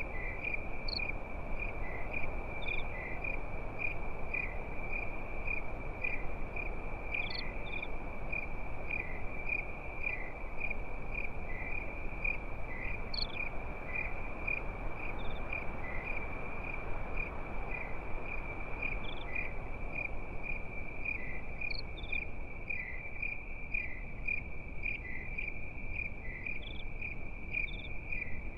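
Crickets chirping in a dense, steady high-pitched chorus of rapid pulses, with occasional higher single chirps from other insects, over a low steady hiss.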